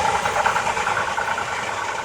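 Electric train moving on the depot tracks, its running noise fading as it moves away, with a steady high tone above it.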